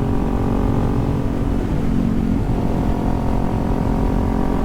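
Kawasaki Z400's parallel-twin engine running steadily at cruising speed, with wind rushing over the microphone.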